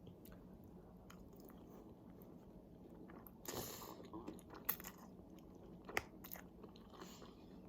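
Faint chewing of food, with a few crisp crunches and small mouth clicks about three and a half seconds in and again around six seconds.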